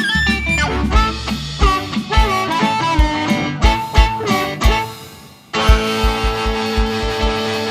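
Live blues band playing an instrumental passage: a wailing harmonica lead with bending notes over guitar and an even bass-drum beat. About five and a half seconds in, after a brief drop, the band comes in on a loud held chord with a run of quick drum hits, like a closing flourish.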